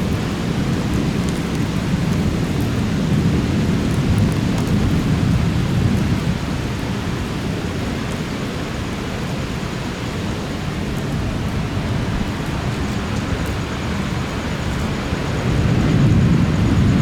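Steady rain with a low rumble of thunder that swells and eases, building again near the end.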